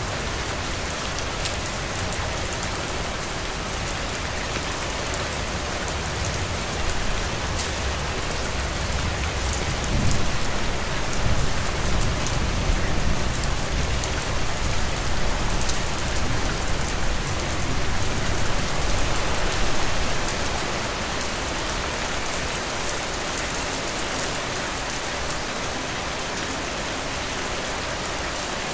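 Heavy rain falling steadily as an even hiss. About ten seconds in, a low rumble swells under it and fades out again some ten seconds later.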